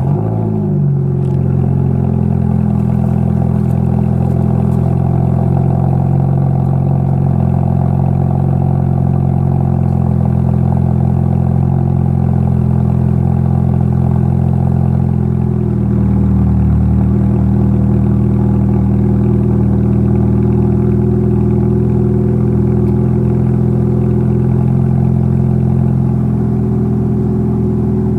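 Car engine breathing through a Thrush glasspack muffler and dual 2.25-inch straight pipes, starting up with a brief flare and settling into a loud, steady idle. The idle climbs a little about halfway through and eases back near the end.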